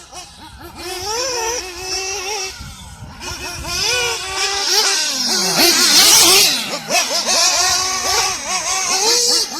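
Nitro engine of a 1/8-scale RC buggy revving up and down again and again, its high pitch rising and falling with the throttle. It is quieter in the first few seconds and loudest around the middle.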